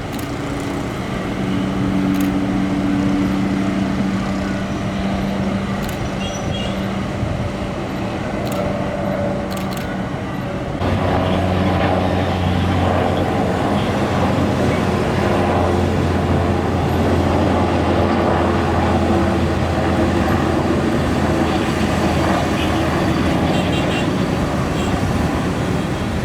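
Steady engine and traffic noise, with a hum for the first ten seconds or so. About eleven seconds in it changes suddenly to a louder, deeper hum.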